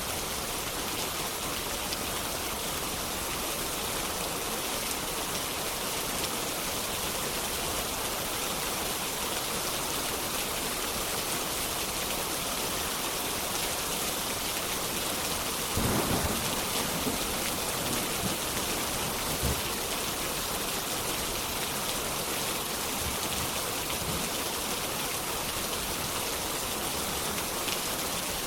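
Steady heavy rain, with a low rumble of distant thunder swelling briefly a little past the middle.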